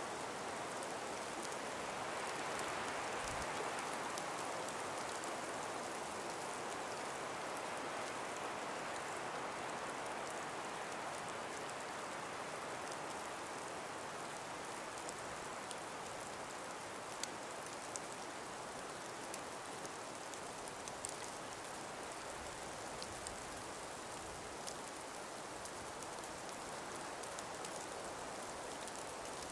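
Calm breeze moving through an ice- and snow-laden forest: a steady soft rush that swells a little a few seconds in and then eases, with scattered faint ticks in the second half.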